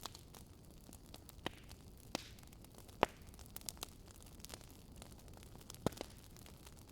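Wood fire crackling in a fireplace: a handful of sharp pops at uneven intervals, the loudest about three seconds in, over a low steady hiss.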